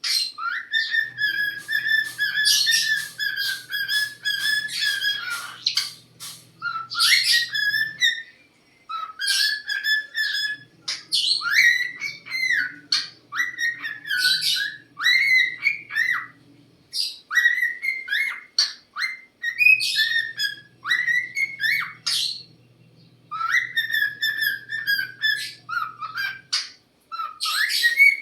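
A cockatiel whistling a song: clear, melodic whistled phrases in several long runs separated by short pauses, with a faint low hum coming and going underneath.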